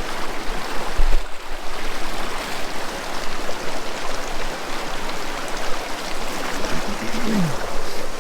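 Mountain stream rushing steadily over rocks, with a short low thump about a second in.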